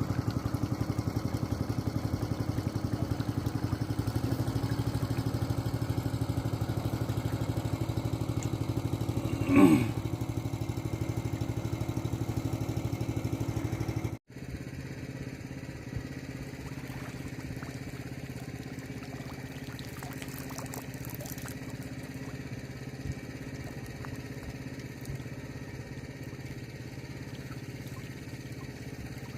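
A small engine running steadily at an even speed. There is a brief falling-pitch sound just under ten seconds in. About halfway through the sound cuts off abruptly, then the engine continues quieter.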